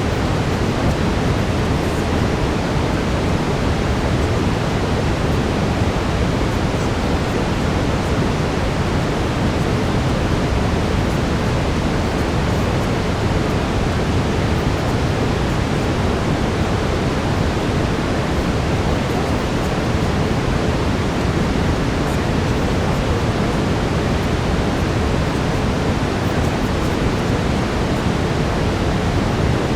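Steady brown noise: an even, low-heavy rushing hiss with no rhythm or changes.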